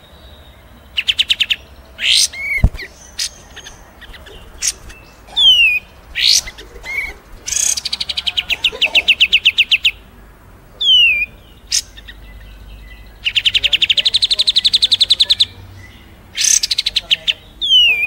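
Several songbirds singing in turn. Their songs include fast rattling trills of rapidly repeated high notes, long buzzy trills, and sharp downslurred whistles. A single sharp click comes about two and a half seconds in.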